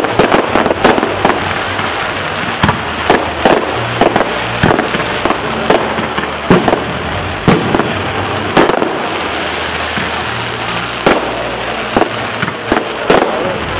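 Fireworks going off in a fast, irregular string of sharp bangs over a constant crackle.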